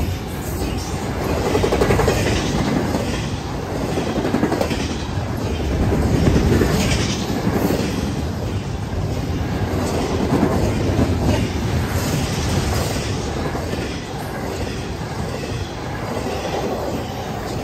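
Intermodal freight train rolling past: the steady rumble of double-stack container cars, with the wheels clicking over the rails.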